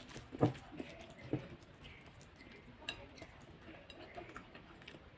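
Eating sounds over taro root curry and rice: three sharp clicks or smacks in the first second and a half, then only faint scattered ticks.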